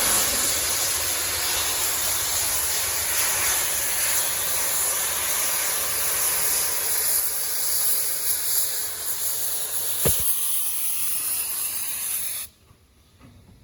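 Steam locomotive venting steam: a loud, steady hiss that cuts off suddenly about twelve seconds in, with a brief click shortly before.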